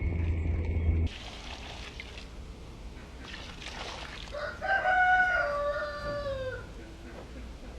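A low rumble that cuts off abruptly about a second in, then a rooster crowing once about four seconds in: a long call of roughly two seconds that falls in pitch at the end.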